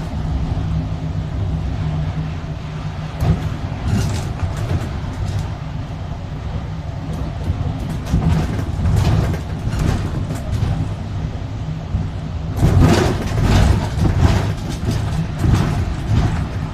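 Steady low running hum of a moving road vehicle, with scattered bursts of noise and a louder noisy passage about thirteen seconds in.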